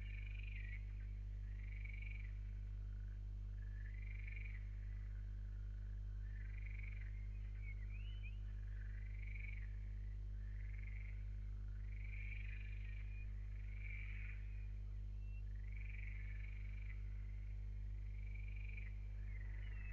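Steady low electrical hum, with a small animal calling over it: a short rising-and-falling chirp repeated about every two seconds.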